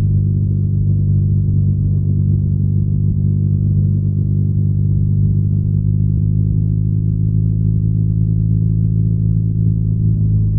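BMW R nineT's 1170 cc air- and oil-cooled boxer twin and its exhaust running at a steady engine speed, a deep, even drone with no revving.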